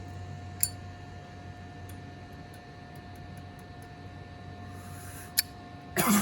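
A lighter clicked a couple of times over a steady low electrical hum, the sharper click near the end coming right after a short hiss. A loud burst of noise and voice comes in at the very end.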